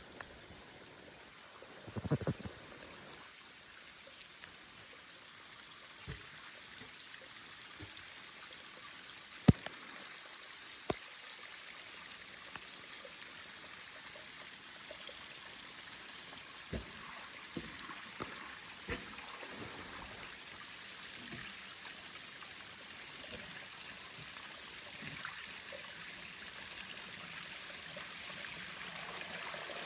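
Small waterfall splashing and trickling among large rocks, a steady rushing that grows gradually louder. A few sharp clicks and knocks stand out of it, a cluster about two seconds in and the sharpest about a third of the way through.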